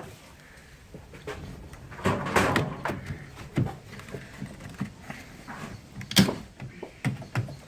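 Scattered clicks, knocks and clatter of tools and engine-bay parts being handled, with a burst of rattling about two seconds in and a sharp knock about six seconds in.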